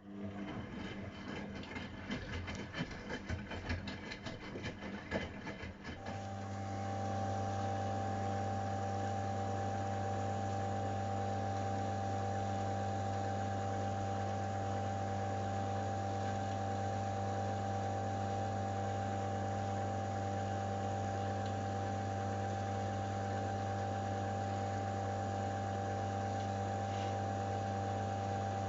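AEG Öko-Lavamat 693 washing machine at work: irregular clattering and rattling for about six seconds, then a steady electric hum sets in and holds without change.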